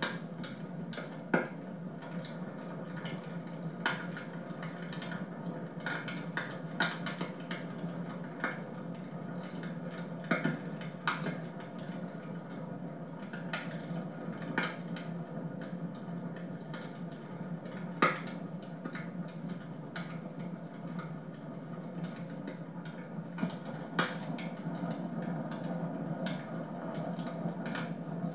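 Wood fire burning in a home fireplace, crackling with irregular sharp pops and snaps. The strongest snaps come about a second in and again about halfway through, over a steady low background.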